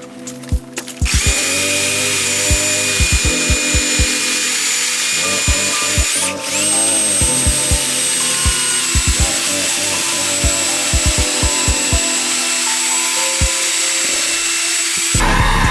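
Handheld electric power tool, such as a drill, running with a steady high whine. About six seconds in it stops briefly and spins back up, then it cuts off near the end. Background music with a beat plays underneath.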